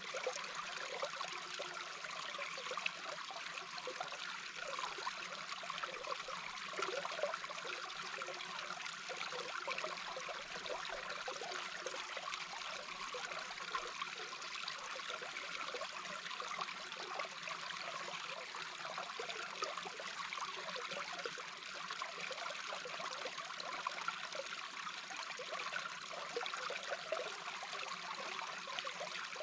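A small brook heard with the microphone underwater: a steady rush of flowing water with a fine, constant crackle.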